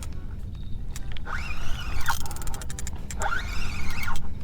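Penn Pursuit 8000 spinning reel being cranked to bring in a hooked fish, its gears whirring in two rising-and-falling sweeps with a run of clicks between them, over a steady low rumble.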